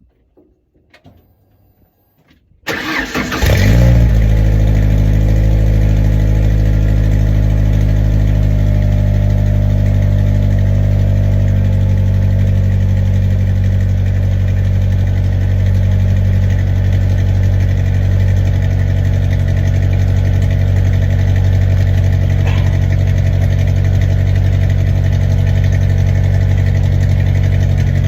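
A Ford Ranger pickup's engine started about two and a half seconds in after a few faint clicks, flaring briefly, then settling into a steady idle through its newly fitted exhaust tip.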